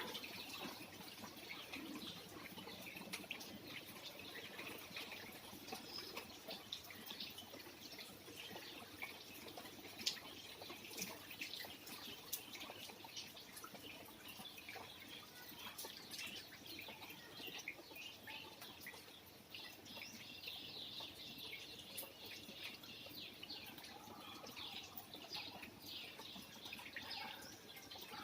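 Rain dripping and trickling, with scattered sharp drops and birds chirping.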